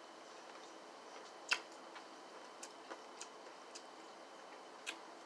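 Eating fried chicken close to the microphone: a handful of irregular sharp clicks and crunches from chewing the crispy breading and lip smacks, the loudest about one and a half seconds in, over a faint steady hiss.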